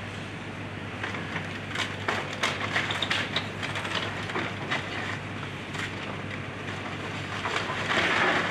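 Excavator engine running steadily while a wooden house is torn apart: a string of sharp cracks and snaps of splintering wood, then a louder crunch of debris near the end.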